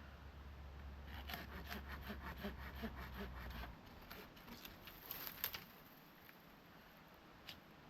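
Hand saw cutting wood in quick, even strokes for about two and a half seconds, followed by a few scattered knocks and a single sharp click near the end.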